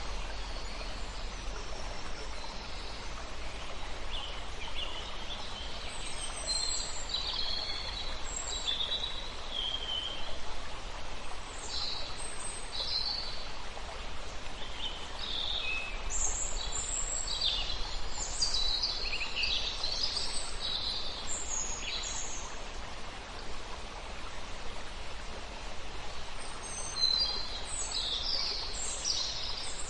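Several songbirds chirping and trilling in high, short phrases over the steady rush of a running stream. The birdsong comes in bunches, busiest in the middle and near the end.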